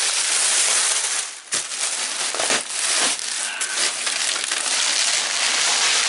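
Bubble wrap crinkling and crackling as it is handled and pulled from a box, with a brief lull about a second and a half in.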